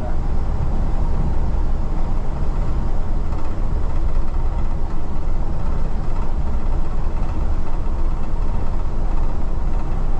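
Steady, loud low rumble of vehicle noise with no clear pass-by swells.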